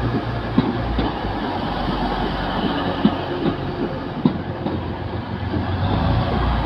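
Two coupled Class 185 diesel multiple units running past: a steady diesel rumble, with sharp irregular clicks as the wheels cross the rail joints.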